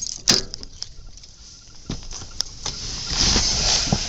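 Rummaging for car keys: a few sharp clicks and knocks, then a stretch of rustling near the end.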